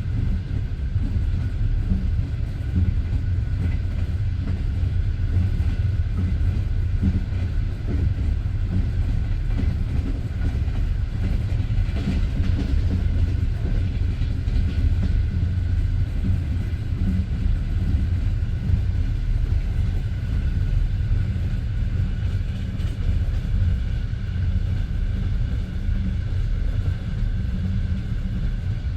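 Passenger train carriage running at speed between stations, heard from inside the car: a steady low rumble of wheels on the rails.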